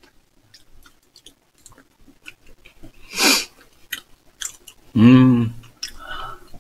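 Close chewing and small wet mouth clicks of someone eating soft strawberry cream cake, with light fork taps. There is a short breathy rush about three seconds in and a brief voiced sound, like an 'mm', about five seconds in.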